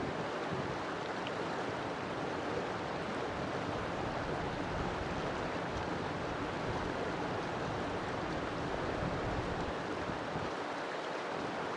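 River water flowing: a steady, even rushing of water.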